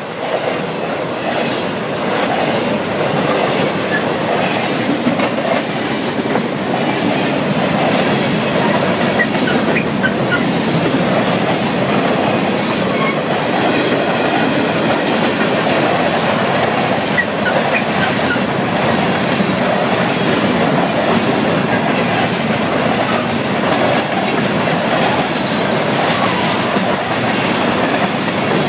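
Florida East Coast Railway freight train passing close by at speed, its tank cars and boxcars rolling past. Steel wheels on rail make a steady, loud rumble throughout.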